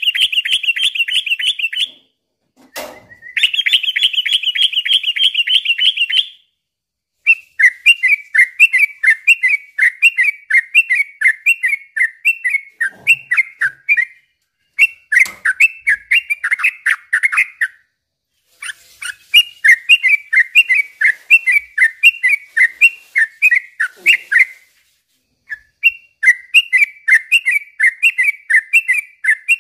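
Yellow-vented bulbul (trucukan) singing loudly. It opens with two fast, buzzy trills, then carries on in long runs of bubbly, warbling phrases broken by short pauses.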